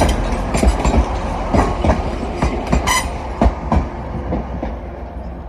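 Class 185 diesel multiple unit running through the station, its wheels clicking over rail joints and points, with a brief wheel squeal about three seconds in. The sound fades as the train draws away.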